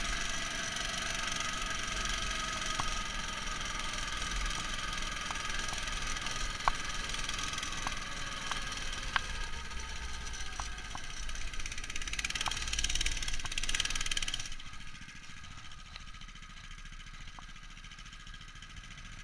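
Engine of a Neva MS-1 motorized snow tow running, heard muffled through a waterproof camera case, with scattered sharp clicks. It swells briefly, then drops sharply in level about three quarters of the way through and stays much quieter.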